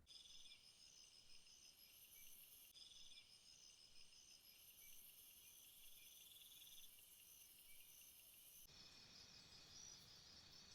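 Faint chorus of jungle insects, steady high-pitched trilling and pulsing. It shifts abruptly near the end to a different pulsing chorus with more low rumble.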